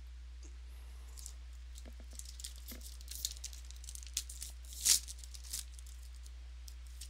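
Crinkling and tearing of a trading-card pack wrapper being opened: a run of crackles with one sharp, loud tear about five seconds in, over a steady low hum.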